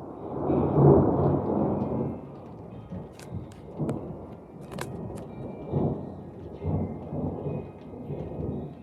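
Thunder rumbling with rain falling. The loudest roll comes about a second in and fades, followed by several weaker swells, with a few sharp ticks in the middle.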